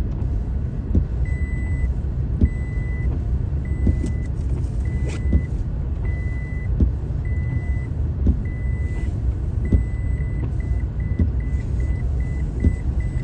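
Car cabin rumble from the engine and road, with a high electronic warning beep repeating about once a second that quickens to several short beeps a second near the end, the pattern of a car's parking or proximity-sensor alert.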